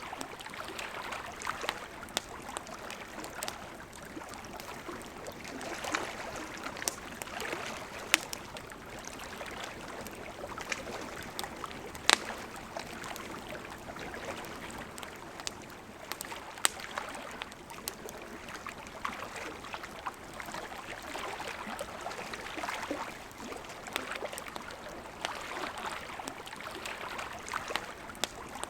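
Wood campfire crackling, with scattered sharp pops and a few louder snaps, the loudest about twelve seconds in, over the steady rush of a flowing river.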